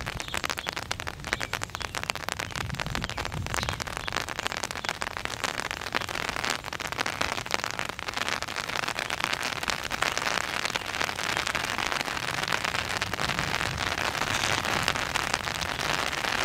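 Steady rain falling, a dense patter of many separate drops.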